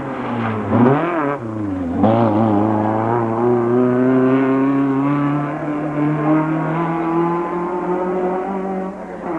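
Race car engine being revved hard: a quick rise and fall in pitch in the first two seconds, a sharp drop about two seconds in like a gear change, then a long steady climb in pitch as it accelerates.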